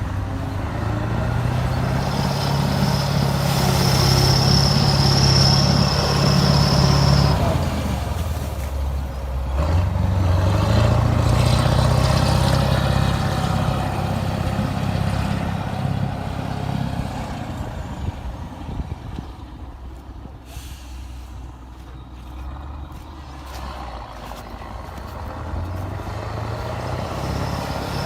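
Kirovets heavy articulated tractor's diesel engine working hard under load while ramming through snow, with a steady high whistle over it for the first several seconds. The engine note dips about eight seconds in, then climbs again in pitch as it is revved. It fades away after that and builds up again near the end.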